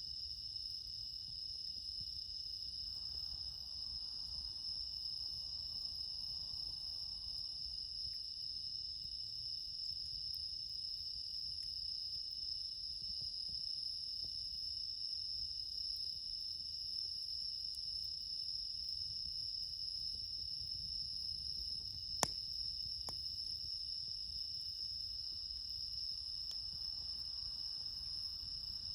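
Night chorus of autumn insects, bell crickets among them, a steady high-pitched trilling that never lets up. A single sharp click about twenty-two seconds in.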